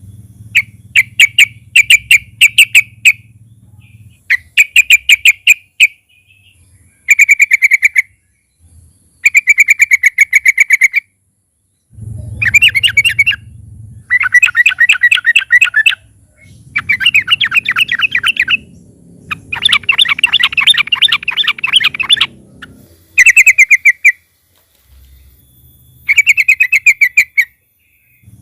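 Yellow-vented bulbul (trucukan) singing loud, rapid chattering phrases, each lasting one to two seconds, repeated with short pauses between them.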